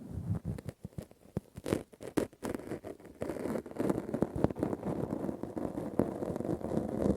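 Close-miked ASMR handling sounds: rustling and scratching with irregular soft taps, as of hands and cotton pads worked right at the microphone. They grow denser about three seconds in.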